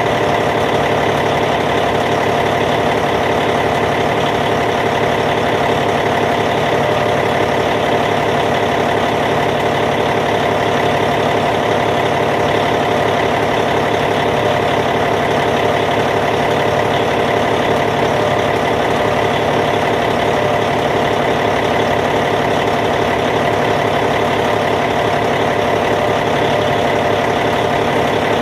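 Caterpillar C15 diesel engine of a Cat D8T bulldozer idling steadily, an even unchanging rumble.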